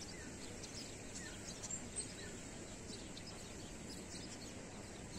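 Faint outdoor ambience: small birds chirping here and there over a steady background hiss.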